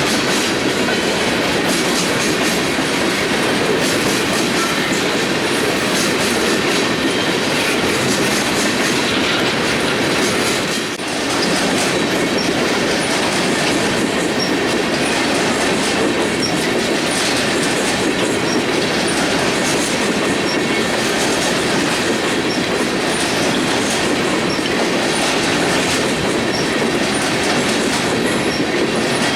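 Freight train cars rolling past on the Union Pacific main line, with a steady rumble and the clatter of wheels over the rail. The sound dips briefly about eleven seconds in.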